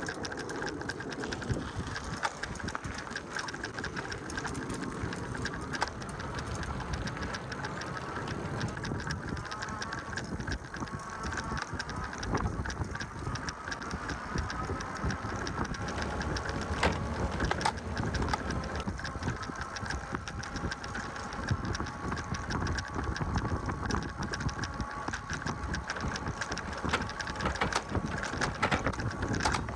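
E-bike riding along a path: the electric motor's faint whine, shifting slightly in pitch, over a steady rumble of tyres and a constant fine rattling of the bike.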